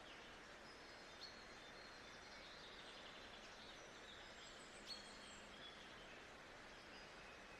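Faint birdsong: scattered short chirps and whistles, with a brief trill about three seconds in, over a steady hiss of background noise.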